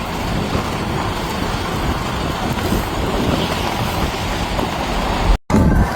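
Steady low rumble of road vehicles' engines and traffic noise on a snowbound road, cut off briefly near the end by an edit.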